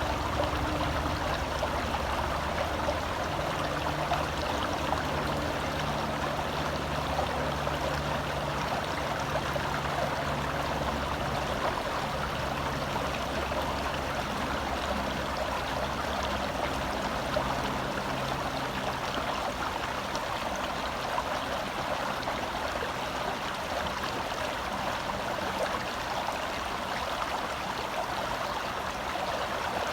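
Shallow forest stream flowing over rocks, heard close up from within the water: a steady, even rushing and gurgling.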